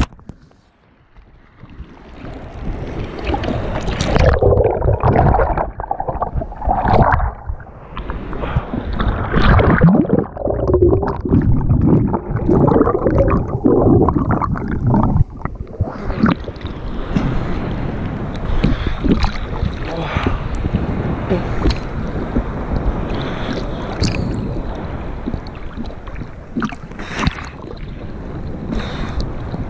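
Rough sea water churning and gurgling around the microphone in the surf. It sounds dull and muffled for about the first half, then turns fuller with sharp splashes.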